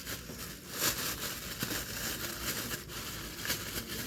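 Dry crackling and crinkling of kerupuk crackers and their plastic wrapping being handled, as a run of many small sharp crackles.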